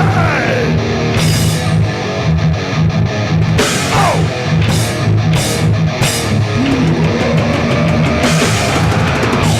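Hardcore punk band playing live: distorted electric guitars, bass and drum kit driving a steady beat with crash cymbal hits, and sliding guitar notes falling and rising a few times.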